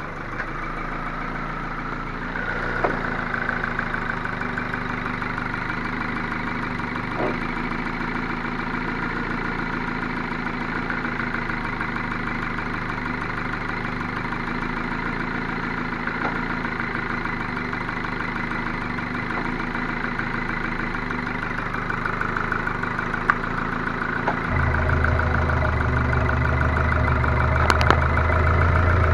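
Ford Focus II 1.6 100 hp petrol engine running with a steady knock, a fault that came on after a rebuild with the block bored to +0.5 mm oversize and new pistons and bearings fitted. Late on a deep low hum joins in and the sound gets louder.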